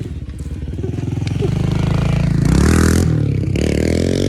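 An engine running with an even pulse, growing louder over the first couple of seconds and then holding steady.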